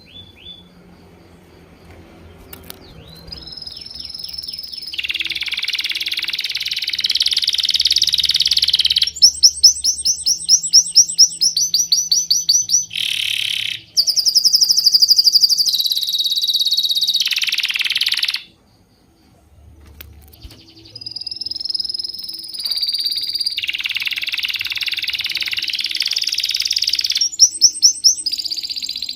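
Songbirds chirping and twittering in a dense chorus, with runs of fast repeated high trills. The chorus drops out almost to silence for about a second and a half, two-thirds of the way through, then returns.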